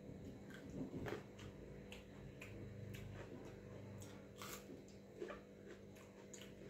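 Faint mouth clicks and wet smacks of a person chewing mouthfuls of watery rice and pakora, scattered irregularly, over a steady low hum.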